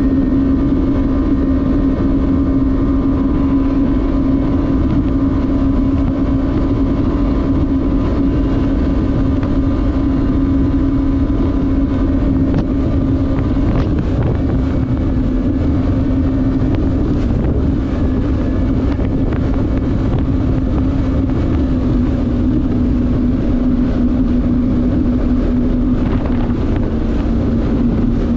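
Jet ski engine running flat out at a steady high pitch over the water, easing slightly in pitch a couple of times.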